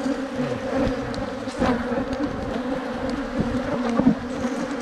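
A mass of agitated Africanized honeybees buzzing close around an open hive, a steady drone. A few light taps come through the buzzing, the loudest about four seconds in.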